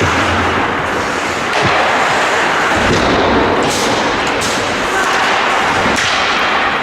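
Ice hockey rink sound during play: a steady wash of noise with players' voices, broken by a few sharp clacks of stick or puck hits about midway and near the end.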